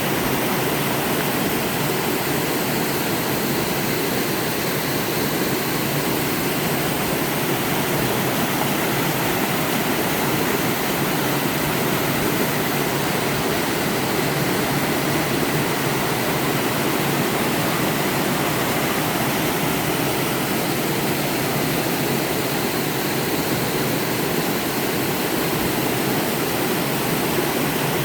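Waterfall: water falling and rushing steadily over rocks in a mountain valley stream.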